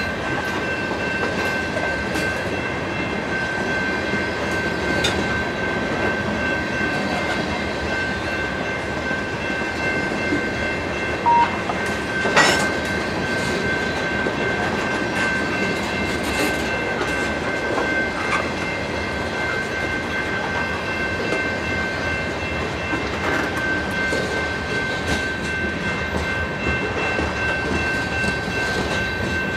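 Freight train cars rolling past, tank cars and covered hoppers, the wheels rumbling and clicking, with a steady high-pitched ringing tone above. About 11 s in there is a short beep, followed a second later by a single sharp bang.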